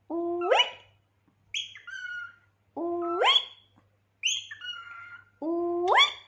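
Pet cockatiel calling repeatedly: three loud calls that hold a low note, then sweep sharply up in pitch. These alternate with two shorter high calls that fall in pitch.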